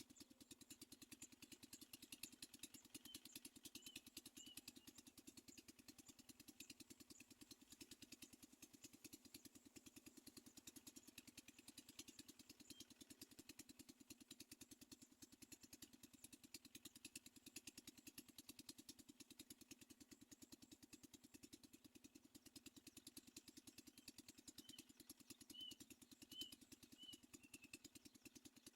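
Faint, fast, steady pulsing drone. Two short runs of small high chirps from a bird, one about three seconds in and four or five notes near the end.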